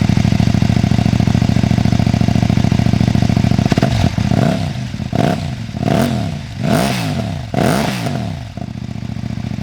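Kove 800 Rally's parallel-twin engine idling through its exhaust. About four seconds in, the throttle is blipped five times in quick succession, each rev rising and falling, before it settles back to a steady idle.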